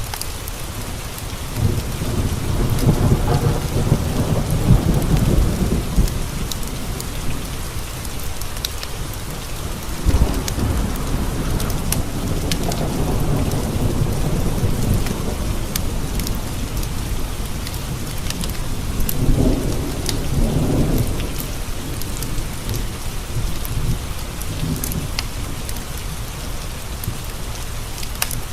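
Steady rain pattering against windowpanes, with rolling thunder rumbling in three long swells, near the start, around the middle and again later on.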